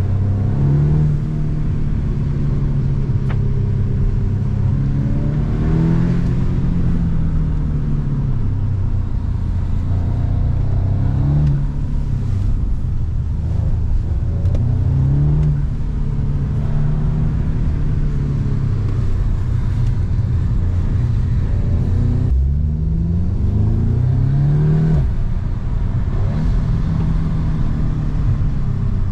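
Audi S3 8V's turbocharged 2.0-litre four-cylinder engine and exhaust under hard acceleration, the pitch climbing and dropping back several times as it pulls through the gears and lifts off for corners.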